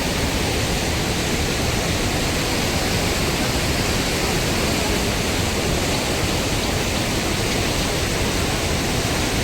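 Fast-flowing floodwater rushing steadily, an even rush of noise without breaks.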